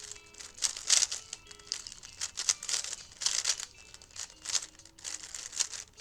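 A 3x3 speedcube being turned quickly by hand: bursts of plastic clicking and clacking from rapid layer turns, coming in uneven runs several times a second.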